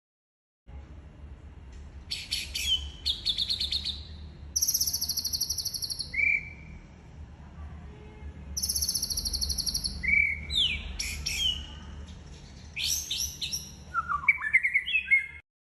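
White-rumped shama (murai batu) singing a competition-style song. It gives rapid, high, rattling trills and short whistled notes in separate phrases with brief pauses between them. The recording starts abruptly just under a second in and cuts off near the end, with a faint low hum underneath.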